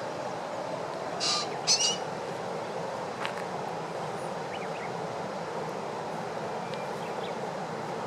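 Common kingfisher bathing: a short splash about a second in, then a second quick burst of splashing half a second later. Both come over a steady background rush.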